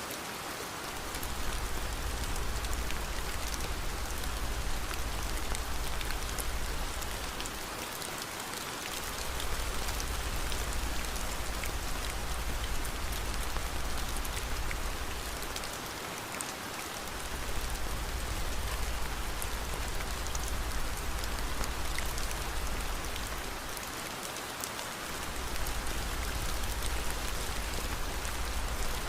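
Steady rain, an even hiss with faint scattered ticks. A low rumble underneath drops out for about a second roughly every eight seconds.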